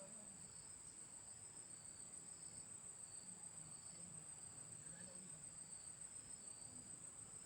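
Faint, steady high-pitched insect trilling, like crickets, with a weaker wavering tone a little lower in pitch.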